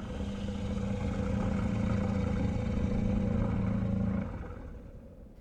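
Creature growl sound effect: one long, low, rough growl held at a steady pitch, fading away near the end.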